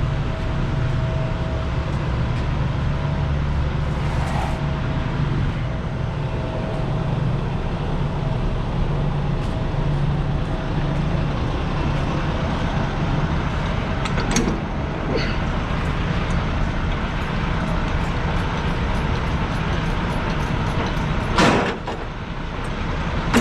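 Semi-truck diesel engine running steadily, heard from the cab. There is a short, loud hiss near the end.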